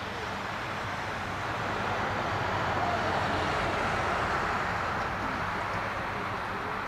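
Boeing 737-800 jet airliner's engines running as it passes, a steady rush that swells to its loudest about three seconds in and then eases slightly.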